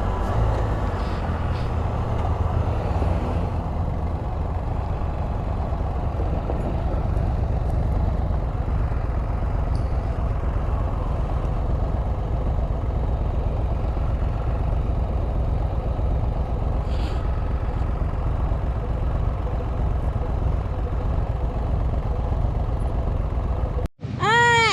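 A Can-Am Spyder RT three-wheeler's three-cylinder engine running under way, with steady wind and road noise. The sound cuts off abruptly near the end.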